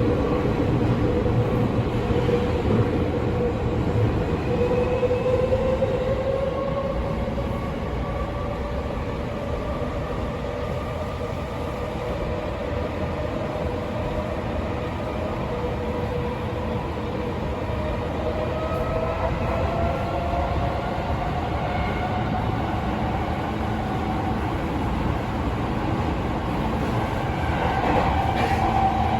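Tokyo Metro 16000 series subway train running in a tunnel, heard from inside the car: steady wheel and track rumble, with a motor whine that slowly rises in pitch as the train gathers speed.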